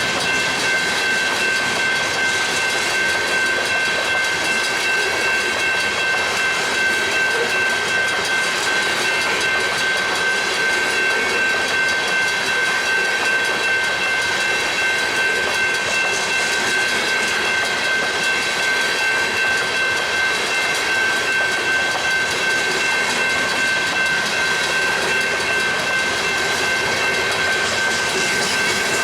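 Freight train rolling past, a steady rail noise with a constant high-pitched whine held throughout.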